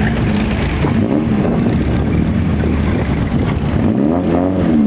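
Hot rod engines running loudly, with one revving up and falling back twice, the clearest rev about four seconds in.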